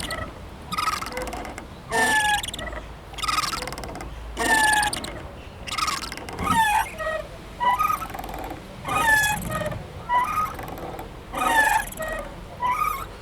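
Playground swing squeaking as it moves back and forth, about one squeak a second, each a short squeal that often falls in pitch.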